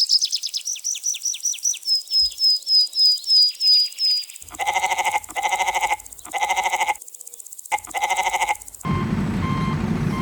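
A run of sound effects. First, a fast series of high chirps that slows over about four seconds. Then four evenly spaced pitched calls, each under a second. Near the end, a truck's reversing beeper starts beeping about twice a second over a steady engine noise.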